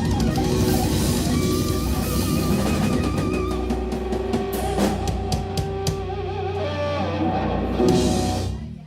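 Live instrumental rock trio of electric guitar, bass guitar and drum kit playing out the end of a song, with cymbal hits, then stopping abruptly near the end.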